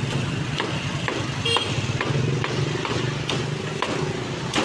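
Street noise with motorbike engines running steadily, broken by irregular sharp knocks about once or twice a second.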